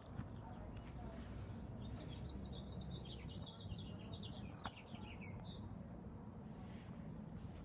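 A songbird singing a quick run of chirps starting about two seconds in, dropping in pitch at the end, over a steady low background rumble.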